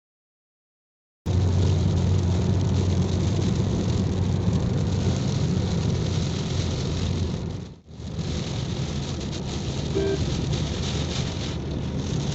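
Steady road and engine noise inside a car driving in rain, with rain hitting the car. It starts abruptly after about a second of dead silence and drops out for a moment near the middle.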